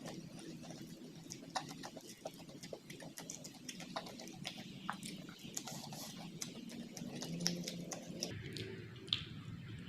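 Close-miked eating: steady chewing and mouth smacking, with many small irregular clicks and crackles.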